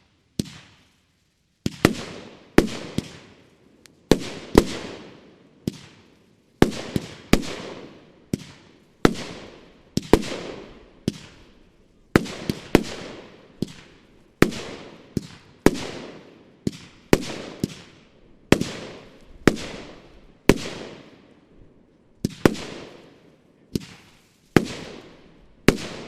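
Bonfireworks Neon Ghost, a 30 mm, 20-shot consumer firework battery, firing its shots one after another, about one to two a second. Each shot is a sharp bang with a short fading tail, and the sequence stops just before the end.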